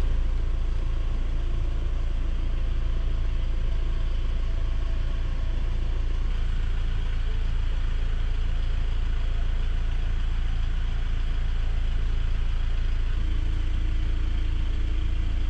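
Car engine idling steadily, heard from inside the cabin as an even low rumble.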